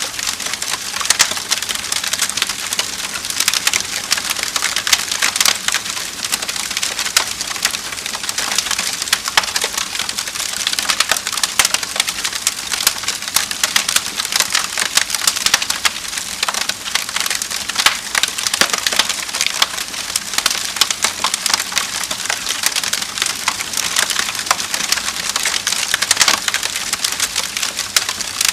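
Wood fire in a fireplace crackling steadily: dense, irregular snaps and pops over a soft hiss.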